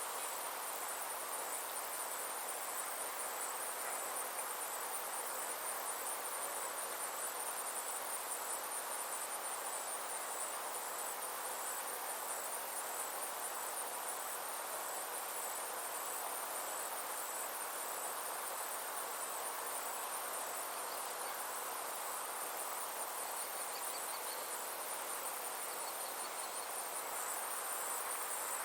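Summer insect chorus: a steady, high-pitched, rapidly pulsing trill that never lets up, over an even background hiss.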